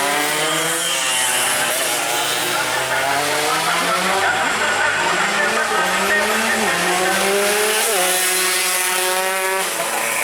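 Several tuned two-stroke sport motorcycle engines revving together, their pitches overlapping and rising and falling, one climbing and then dropping sharply near the end.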